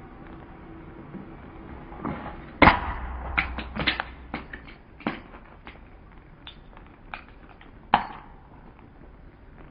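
Car tyre rolling over a plastic hands-free headset: a big crunch about two and a half seconds in, then a run of sharp cracks and crackles, with one more loud crack near the end.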